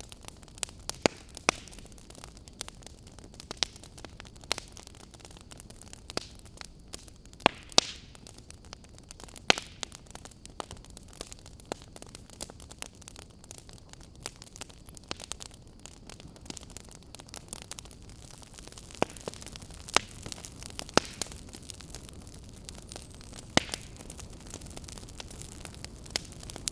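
Campfire burning: a steady low hiss of flames with sharp, irregular crackles and pops from the burning wood, a few of them much louder than the rest.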